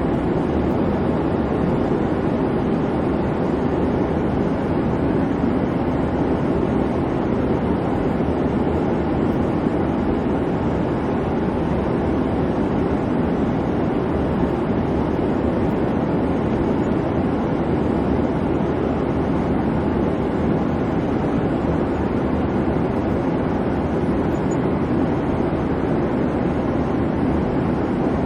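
Airliner cabin noise in flight: a steady, even rumble and hiss of jet engines and airflow, with no changes.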